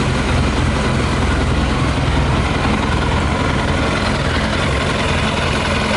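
Yamaha YZF 600R's inline-four engine idling steadily while running on 40% whisky in place of petrol.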